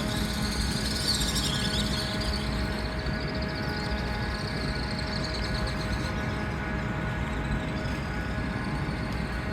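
Steady machinery hum with a low rumble and a few held tones under it, and a fluttering high hiss during the first couple of seconds.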